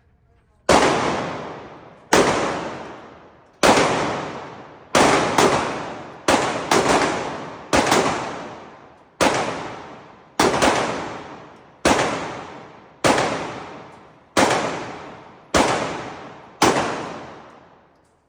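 Gunshots fired one at a time, about fifteen in all, roughly one every second or so with a couple of quick doubles in the middle; each shot rings out with a long echoing decay.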